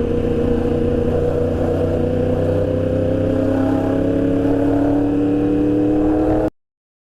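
Motorcycle engine pulling away and accelerating, its pitch rising slowly and steadily. It cuts off suddenly near the end.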